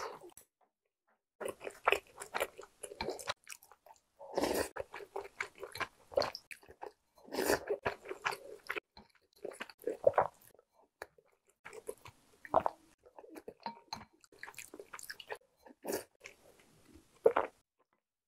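Close-miked chewing and biting of Korean home-cooked food, spoonfuls of rice and side dishes such as pork bulgogi, in irregular bursts broken by short silent gaps. Sharp clicks of a spoon and chopsticks on ceramic bowls are mixed in.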